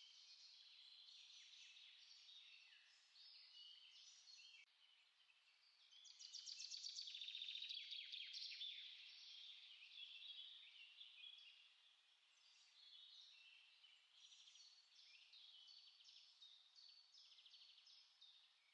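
Faint songbirds singing, several short chirping phrases overlapping throughout, with one louder rapid trill about a third of the way in.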